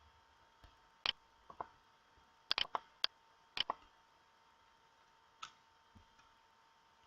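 About a dozen short, sharp clicks in an irregular series, several coming in quick pairs and triples in the first four seconds, then two lone fainter ones.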